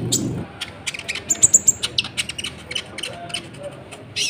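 Kolibri ninja (sunbird) singing a rapid run of sharp, high chirps and short downward-sliding notes, ending with a louder sweeping call.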